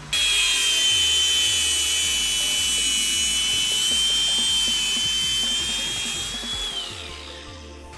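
Electric cut-off tool cutting through braided stainless steel fuel hose: a steady high whine with a harsh hiss, then the motor winds down and the whine falls in pitch near the end.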